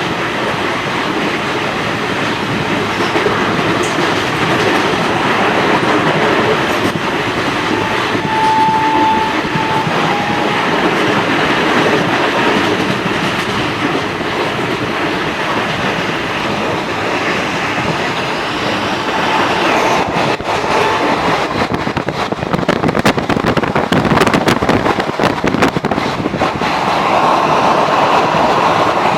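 Raptiganga Express passenger train running at speed, its wheels clattering rhythmically over the rail joints. A brief high steady tone sounds about nine seconds in, and sharp clicks crowd together in the last third.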